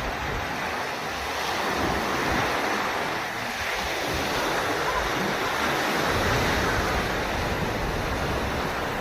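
Sea surf washing onto the shore in a steady rush, swelling a little twice, with wind rumbling on the microphone.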